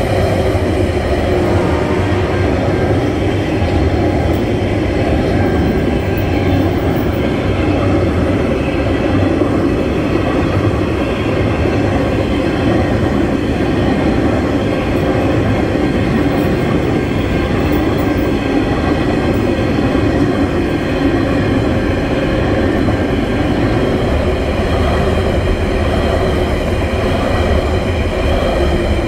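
Freight train's container and empty log wagons rolling steadily past, steel wheels running on the rails.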